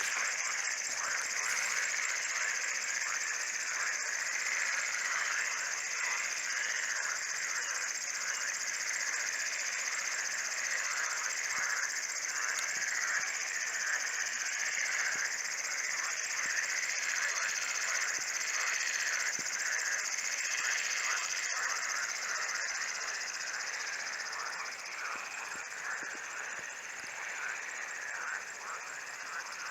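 Chorus of insects stridulating: a steady, high continuous trill with a busier layer of short chirps beneath it, easing slightly near the end.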